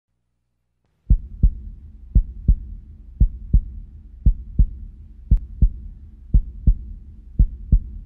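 Heartbeat sound effect: paired low thumps, a lub-dub about once a second over a low hum, starting about a second in.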